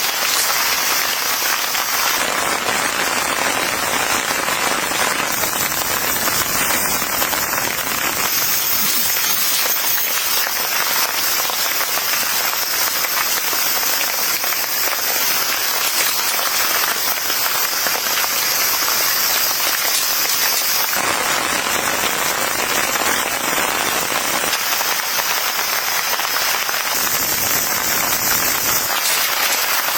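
Steady heavy rain falling, an even hiss with no pause, its tone shifting slightly in the top range a few times.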